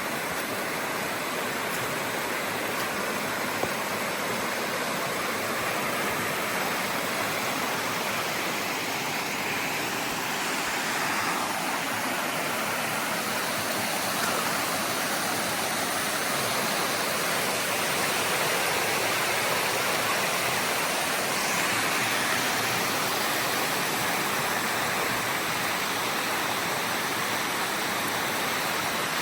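Creek waterfall rushing steadily, a continuous wash of falling water, growing slightly louder about a third of the way in.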